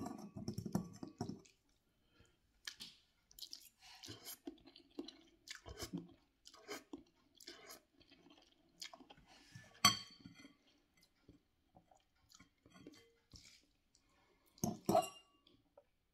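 A person chewing a mouthful of long ramen noodles in short, irregular bouts, with a metal fork now and then clinking against a glass bowl, sharply once about ten seconds in.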